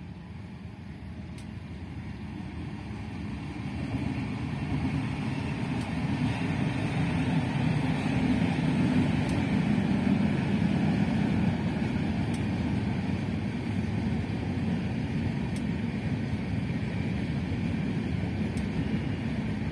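Electric-hauled passenger train running past, the wheels rumbling on the track; the sound grows louder over the first eight seconds or so as the train approaches, then holds steady as the coaches pass.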